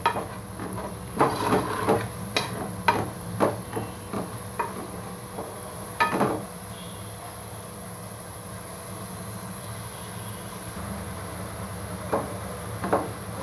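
Diced potatoes sizzling steadily in hot oil in a pot, with a spoon knocking and scraping against the pot as they are stirred: a run of knocks over the first six seconds, a stretch of plain sizzling, then two more knocks near the end.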